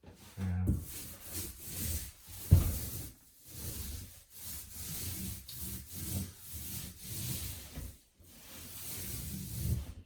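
Paint roller rolling white paint back and forth over a drywall patch, a rough rubbing in several long strokes with short breaks, and a single knock about two and a half seconds in.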